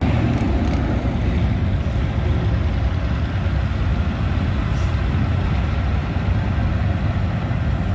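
A truck driving: a steady low engine and road rumble.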